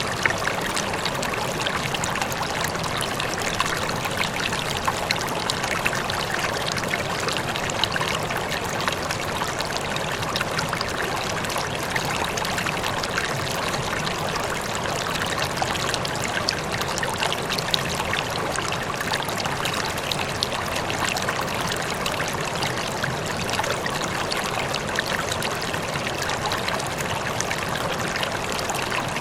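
Water flowing steadily over rocks in a stream, a continuous bubbling, splashing rush.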